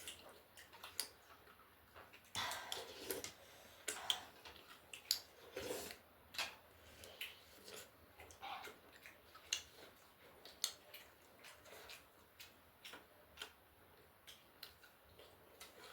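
Close-miked eating sounds: irregular chewing and mouth smacks, faint, with a few longer, louder sounds about two and a half, four and six seconds in.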